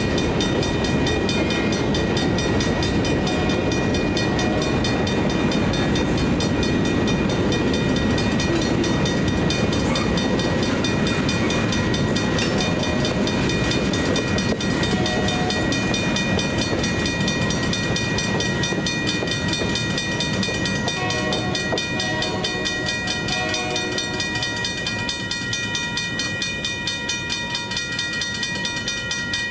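Freight train rolling through a grade crossing, wheels clattering over the rails, while the crossing's mechanical bells ring with rapid, steady strikes. The train's rumble eases off a little near the end.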